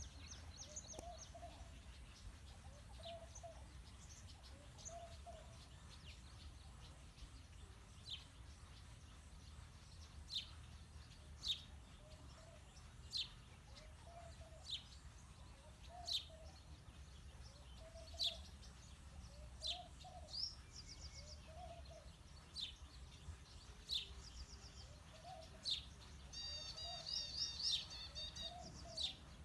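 House sparrows chirping: single sharp chirps every second or two, with a burst of rapid chattering near the end. Beneath them a softer, lower call from another bird repeats steadily.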